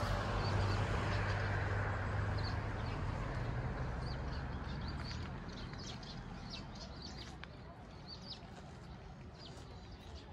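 Small birds chirping in short, high calls, more of them in the second half, over an outdoor rumble that fades away around the middle.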